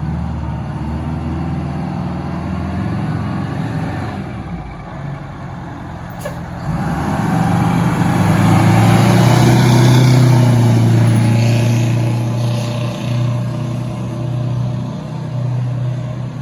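Fire engine's diesel engine running and pulling out, growing much louder about seven seconds in, loudest in the middle, then easing off. A single sharp click comes just before it builds.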